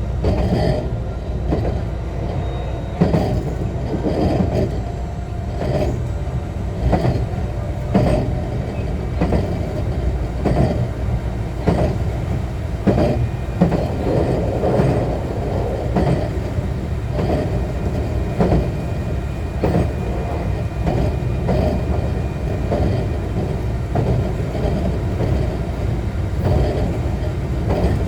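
JR West 125 series electric railcar running along the line, heard from inside the car: a steady low rumble with the wheels clacking over rail joints every second or two.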